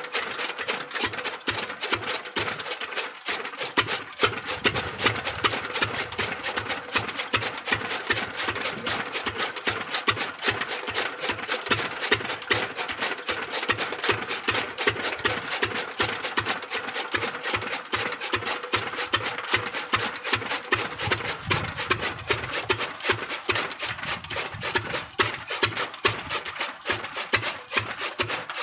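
Pumpset engine running steadily, driving a chaff cutter, with a rapid, even train of firing beats.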